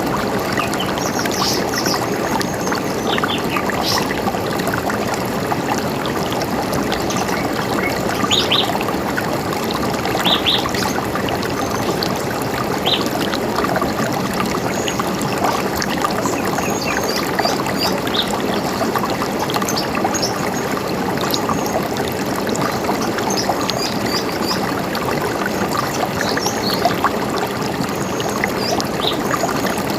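River water running steadily, with short bird chirps scattered over it, a few stronger ones about eight and ten seconds in.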